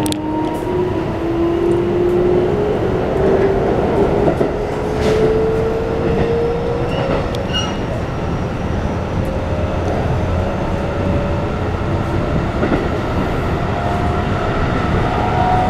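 Keikyu New 1000 series train's Toyo IGBT-VVVF inverter whining as the train accelerates, its pitch rising steadily, over the rumble of wheels on track, heard inside the passenger car.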